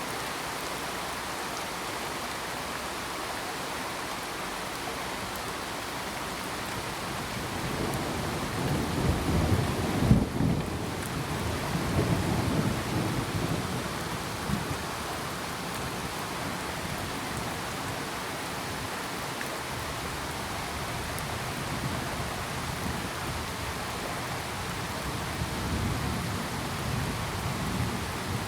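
Steady rain falling, with a roll of thunder that builds about a third of the way in, peaks, and rumbles away over several seconds; a fainter rumble comes near the end.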